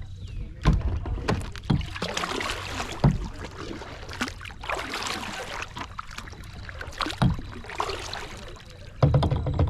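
A kayak being paddled: the paddle blades swish and splash through the water in several strokes, with a number of sharp knocks in between.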